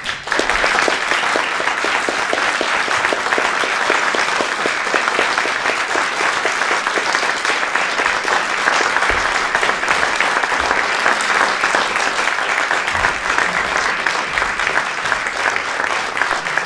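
Audience applauding, starting suddenly and keeping up steadily as dense clapping.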